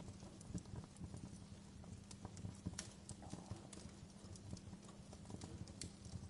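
Wood fire crackling in a fireplace: irregular sharp pops and snaps, several a second, over a low rumble of burning logs and a faint steady hum.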